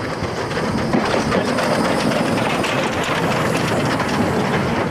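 Metre-gauge train passing close by, its wheels clattering over the rail joints in a dense, steady rattle.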